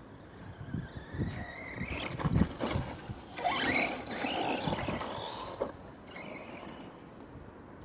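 Brushless electric motor of an RC monster truck whining up in pitch as it accelerates, then a loud stretch of driving noise that dies away about six seconds in.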